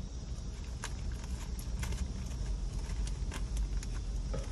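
Low, steady rumble of a Chevrolet idling, heard from inside the cab, with light irregular clicks about three a second.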